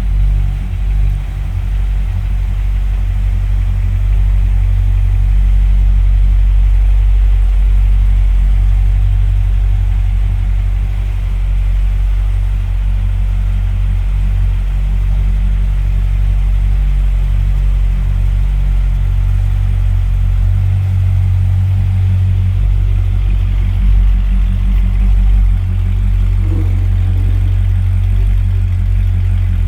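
2006 Corvette Z06's 7.0 L LS7 V8 idling steadily while warming up from a cold start, a deep, even rumble.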